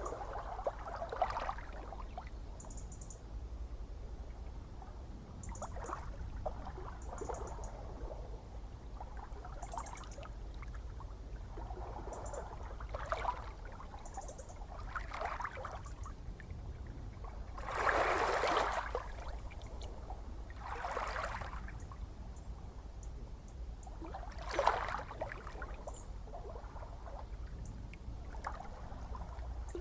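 Gentle ocean waves lapping and splashing: small irregular splashes every second or few, with a bigger one a little past the middle and another near the end, over a steady low rumble.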